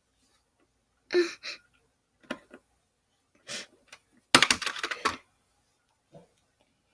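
Small plastic toy figures being handled and set down: scattered light clicks and knocks, with a quick rattling clatter of several hits a little past the middle.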